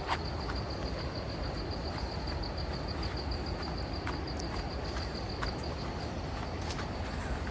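An insect's high, fast-pulsing trill, typical of a cricket, that stops about six seconds in. Beneath it runs a steady outdoor rush with a low rumble, with a few faint clicks.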